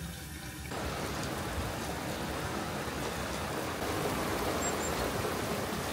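Steady rain falling on a campervan, an even hiss that begins abruptly just under a second in.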